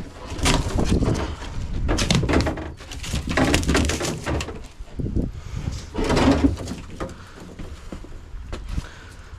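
Irregular bursts of scraping and crackling handling noise as copper piping is worked and peeled off a freezer's panel, over a low rumble.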